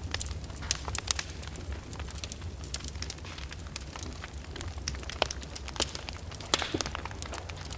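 Fire burning in a fireplace, crackling with irregular sharp pops over a steady low rumble. The loudest pops come about a second in and again between five and seven seconds.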